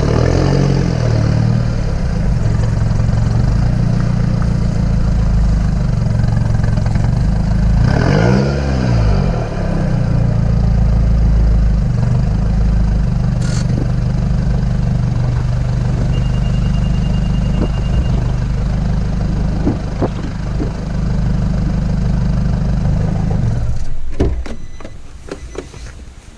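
Nissan Pathfinder engine running through a 3-inch stainless steel exhaust: a steady low drone, with two revs that rise and fall in pitch, one right at the start and one about eight seconds in. The engine sound drops away sharply near the end.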